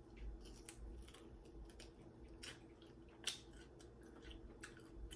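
Faint close-up eating sounds: a person chewing, with scattered soft wet clicks and one sharper click about three seconds in.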